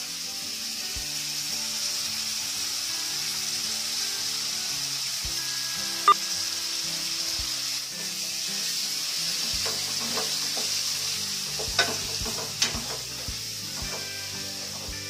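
Tomatoes, onion and spices frying in hot oil in an aluminium kadai, a steady sizzle as the masala is stirred with a spatula. There are a few sharp knocks of the spatula against the pan, one about six seconds in and two close together near twelve seconds.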